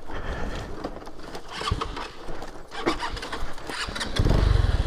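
Stalled Lifan KP Mini 150's single-cylinder four-stroke engine being restarted: scattered clicks and rustling, then about four seconds in the engine fires and runs with a rapid low pulsing.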